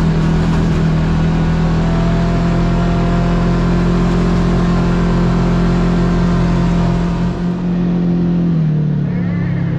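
Kawasaki KRX side-by-side's parallel-twin engine running at a steady trail speed, its note dipping and then rising again near the end.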